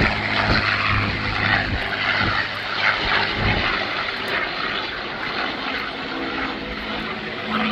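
Propeller airplane flying past, its engine drone fading out about three and a half seconds in and leaving a steady hiss.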